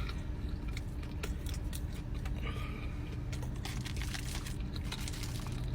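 Close-up chewing of a fried chicken sandwich: scattered small wet mouth clicks, over a steady low hum.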